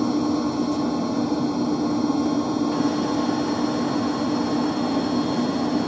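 Steady, unbroken hum of running electric circulation pumps in a heating plant room, a constant low tone over even machine noise.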